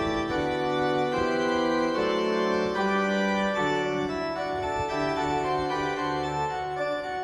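Background music: sustained organ-like keyboard chords with held bass notes changing every second or so.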